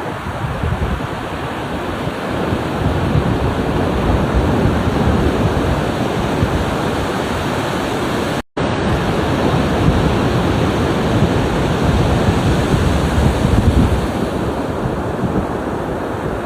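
Ocean surf: a continuous wash of breaking waves, swelling and easing. The sound cuts out completely for a split second about halfway through.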